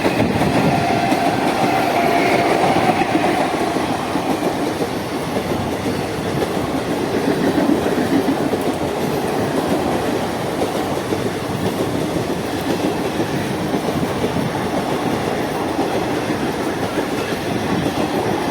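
A train running on the rails close by, its wheels clattering over the track, with a steady high tone in the first few seconds.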